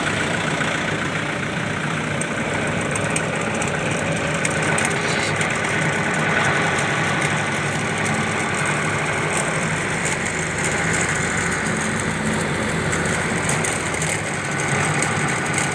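Tractor engine running steadily at idle, with faint rapid ticking over it.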